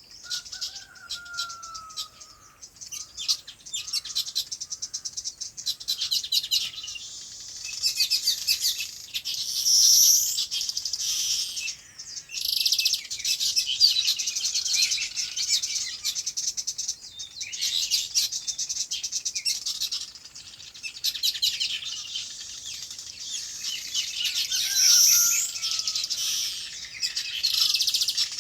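A flock of small birds chirping and chattering together in dense, rapid, overlapping bursts that swell and ebb every few seconds. A lower, falling call sounds about a second in and again near the end.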